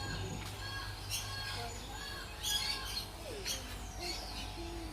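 Birds calling: a series of short, high squawks and chirps repeating irregularly.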